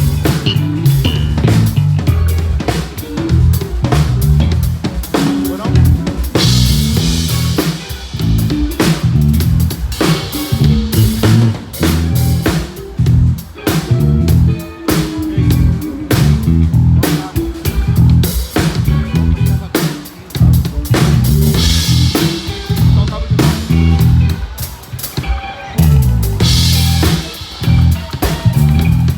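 A band playing music, led by a drum kit: bass drum, snare and rimshots keep a steady groove over bass and guitar. Cymbals swell a few times along the way.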